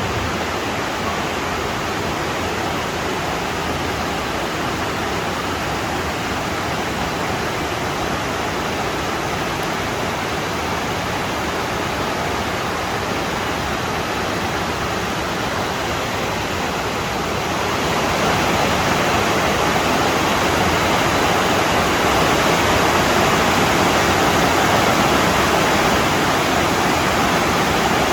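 Water rushing steadily over small falls and cascades, a continuous even hiss; it gets louder about 18 seconds in.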